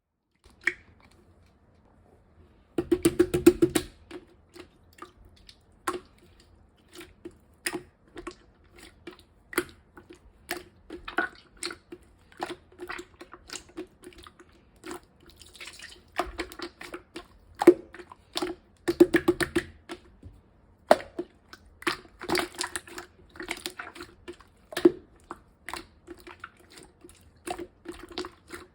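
Clear slime being squished and poked by hand, making irregular wet, sticky clicks and pops. A dense run of crackling comes about three seconds in, and another later on.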